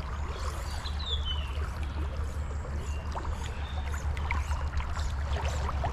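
Creek water flowing and splashing, over a steady low rumble.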